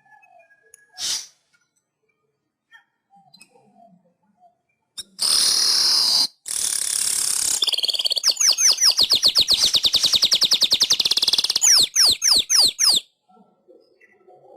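Manyar (weaver bird) singing: two harsh, wheezy hissing phrases from about five seconds in, then a fast rattling trill of down-slurred notes lasting about four seconds, ending in a few slower, separate down-slurred notes.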